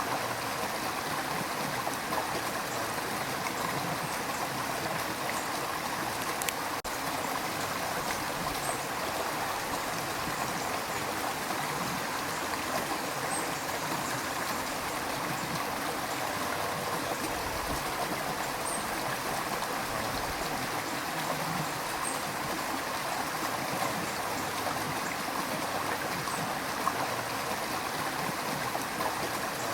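River water rushing and gurgling over rocks in a steady, continuous flow.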